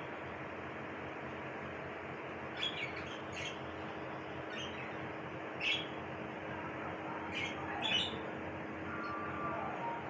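Bird chirping: short, scattered chirps a second or two apart over a steady background hiss.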